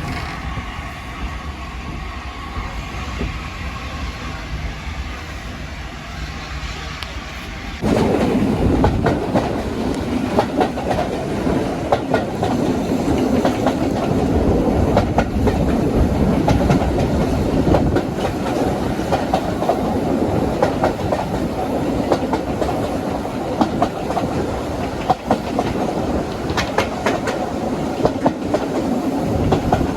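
Train running on the rails, its wheels clicking over the rail joints, suddenly much louder about eight seconds in.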